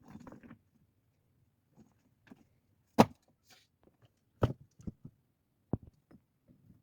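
A soft rustle at the start, then scattered sharp knocks of hard objects being handled: one loud knock about three seconds in, followed by several lighter clacks.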